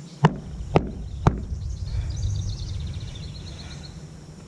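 Three sharp knocks, about half a second apart, then low rumbling handling noise, with birds chirping faintly in the background.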